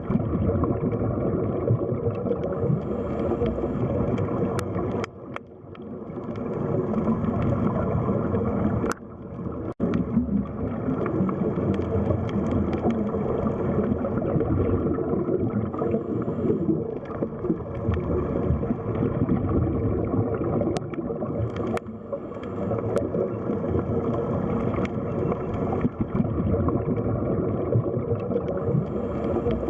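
Underwater sea-floor ambience: a dense, steady low rumble and gurgle of water, briefly dropping away about five and nine seconds in, with a few faint clicks.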